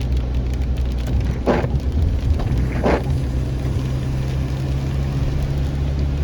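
Car's steady low engine and road rumble, with two short sharp sounds about one and a half and three seconds in.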